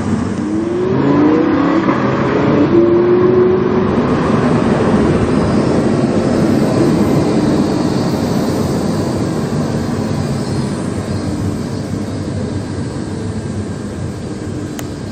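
Lamborghini Huracán's V10 through a PowerCraft aftermarket exhaust, heard from inside the car: the engine note rises in pitch under acceleration in the first couple of seconds, then settles into steady running with road noise, slowly getting quieter toward the end.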